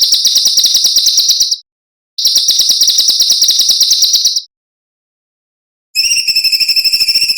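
Songbird giving rapid, harsh trills of fast repeated notes: two high-pitched trills of about a second and a half and two seconds, then after a pause a third, lower-pitched one. These are the 'besetan' (rapid rasping trill) calls of a bird-training master recording.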